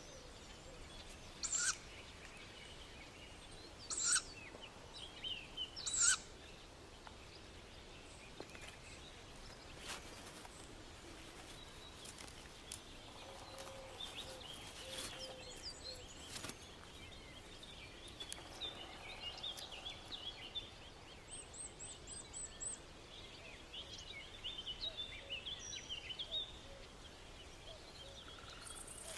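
Tawny owl chicks in a tree-hole nest giving short, hissing begging calls, three of them in the first six seconds. Faint chirping follows for most of the rest, with a brief fast high trill a little past the middle.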